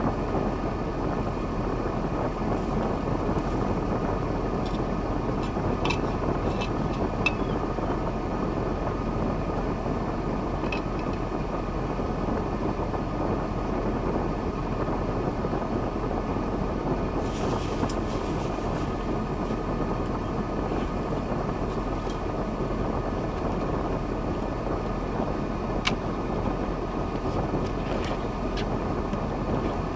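KAMAZ logging truck's diesel engine running steadily, with a few light knocks scattered through it.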